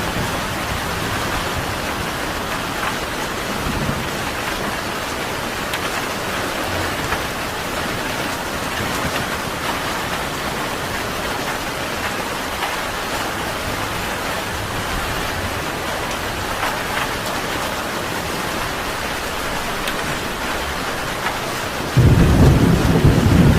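Steady rain falling, an even hiss. Near the end a sudden deep rumble comes in and is louder than the rain.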